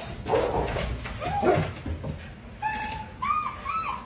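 A dog whining: several short, high-pitched whines, most of them in the second half.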